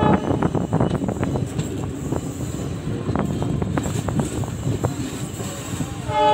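Express passenger train running, heard from on board: a steady rumble with irregular sharp clicks of the wheels over rail joints. Near the end a locomotive horn starts to sound.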